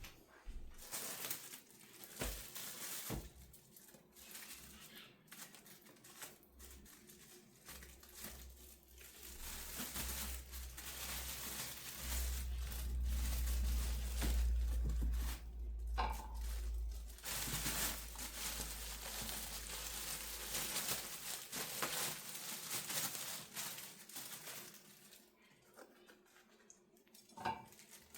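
Baking paper crinkling and tearing as it is handled, in an irregular run of rustles, with a low rumble underneath for several seconds in the middle.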